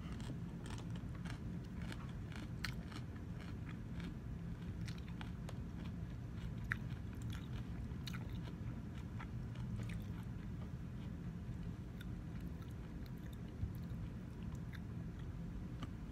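Close-up chewing of crunchy raw salad with shredded red cabbage: many crisp crunches, thickest in the first five seconds and sparser after, over a steady low hum.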